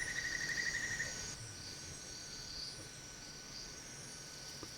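Insects calling: steady high-pitched trills, with a lower rapid pulsing trill that stops about a second in.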